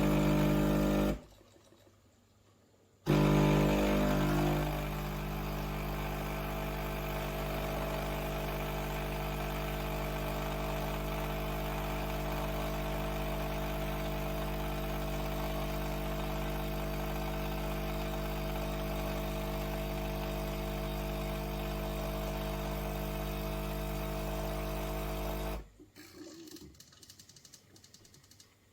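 Philips 5400 Series bean-to-cup espresso machine running with a steady, loud mechanical hum. It stops briefly about a second in, starts again a moment later and runs on for about twenty seconds before cutting off suddenly near the end, leaving a few faint clicks.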